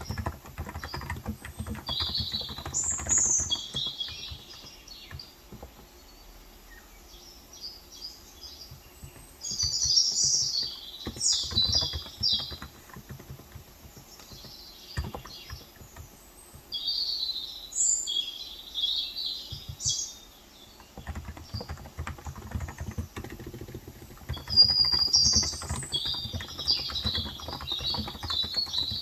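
Typing on a Cox Endeavor tenkeyless electrostatic capacitive keyboard with 35 g switches: quick runs of soft keystrokes in the first few seconds and again through the last third, with a long pause in between. Birds chirp in several bursts throughout.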